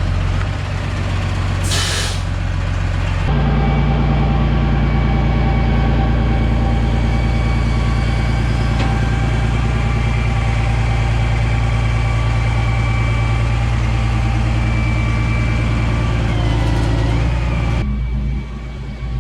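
Heavy truck engine running steadily, with a short hiss of air, like an air brake, about two seconds in. The engine gets louder about three seconds in and drops away near the end.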